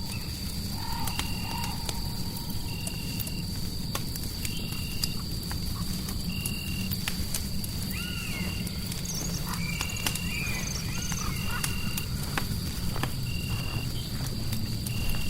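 Designed ambience of a crackling fireplace with scattered sharp crackles over a steady low white-noise rumble. A short high chirp repeats about once a second, and a few short gliding animal-like calls come in around the middle.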